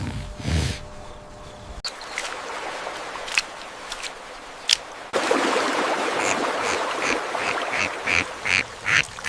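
Ducks quacking, a run of short calls starting about five seconds in and coming faster toward the end; before that, a few faint short calls over background noise.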